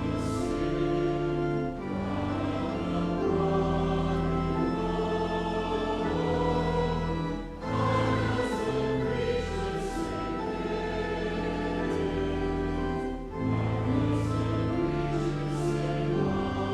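Slow church music of sustained chords that shift every second or two, with choral singing.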